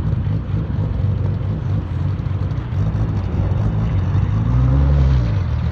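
A car engine running steadily, its pitch rising and then falling again around four to five seconds in.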